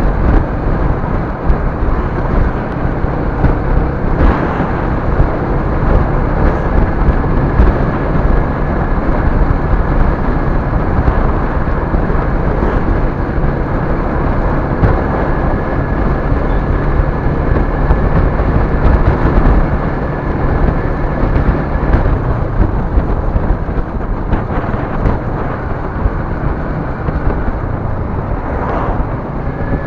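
Moving road vehicle: a loud, continuous low rumble of wind and road noise with a steady engine hum, the hum fading about 22 seconds in.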